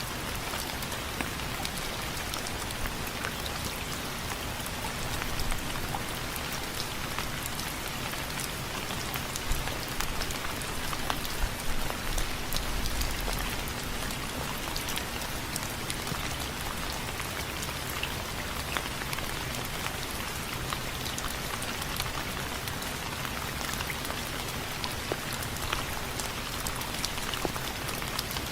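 Steady rain falling on window frames, a constant hiss with individual drops ticking and splatting sharply on the frame, a few heavier hits about ten to thirteen seconds in.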